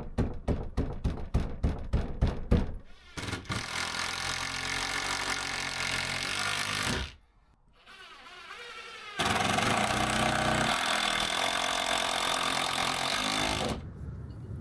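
Stable repair work: a fast run of knocks, about five a second, then a power tool running steadily in two long runs with a short break between them.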